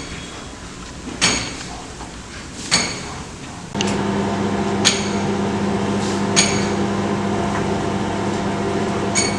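A couple of sharp clicks as the microwave oven is closed and set, then about four seconds in the microwave oven starts running with a steady hum, heating the chocolate compound to melt it. A few light clicks sound over the hum.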